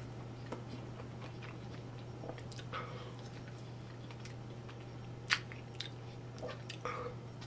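A man biting into and chewing a mouthful of hamburger, with soft wet mouth clicks and smacks and one sharper click about five seconds in. A steady low hum runs underneath.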